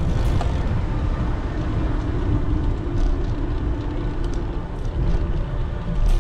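Wind buffeting the microphone of a moving bicycle, a loud steady rumble, with a faint held tone that wavers in the middle.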